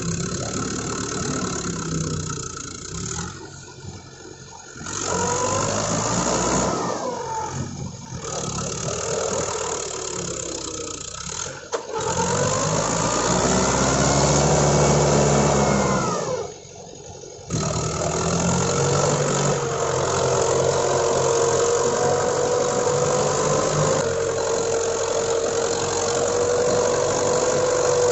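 Mahindra 575 DI tractor's diesel engine running under load, its pitch rising and falling as it is revved, heard in several short segments that cut off abruptly. Near the end it settles into a steadier high-revving tone that creeps up slightly.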